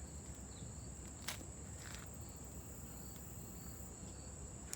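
Steady high-pitched chirring of crickets, with one sharp metallic click about a second in.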